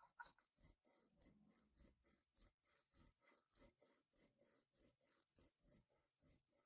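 Hand scrubbing strokes against a rusty metal tool during rust removal, back and forth at about three strokes a second, with a hiss on each stroke.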